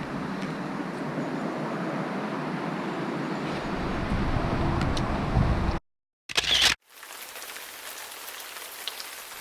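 Steady hiss of rain and wind with camera handling noise. About six seconds in it drops out to silence for half a second, broken by a brief loud handling rustle, then a quieter hiss resumes.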